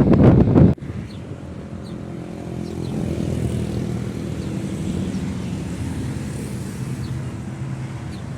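Passing train wheels clattering loudly over rail joints, cut off abruptly less than a second in. A steady diesel locomotive engine drone follows.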